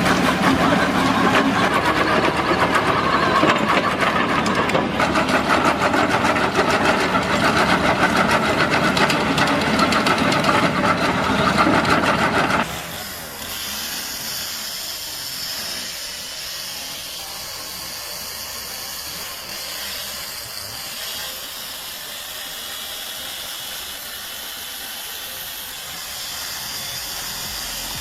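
Hydraulic drum-cutter mulching head running and shredding wood, a loud, dense grinding noise. About twelve seconds in the sound cuts abruptly to a quieter, steady machine hiss.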